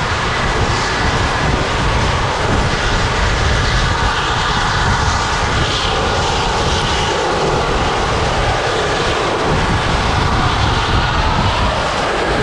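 Steady rush of wind buffeting the microphone on the outside of a moving passenger coach, over the running rumble of the train.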